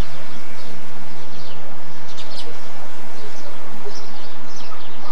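Small birds chirping: short, high chirps every second or so, several in quick succession about two seconds in, over a steady background hiss.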